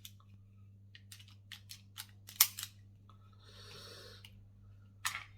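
Sharp metallic clicks and clacks of a Beretta 84FS gas air pistol being handled and worked, in an uneven series, with a brief soft rustle about three and a half seconds in and two more clicks near the end.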